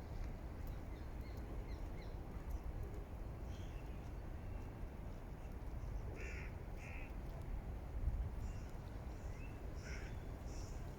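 Harsh bird calls: two short caws in quick succession about six seconds in and a fainter call near ten seconds, over a steady low rumble.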